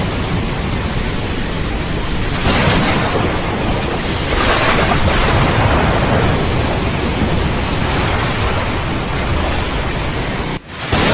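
Steady heavy rain hiss over a continuous low rumble of rolling thunder, swelling a couple of times. Near the end the sound cuts out briefly, for a fraction of a second, and then comes back.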